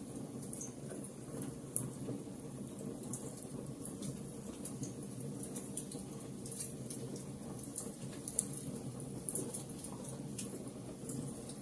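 Wood fire burning in a fireplace: a steady low rush under irregular sharp crackles and pops, a few of them louder than the rest.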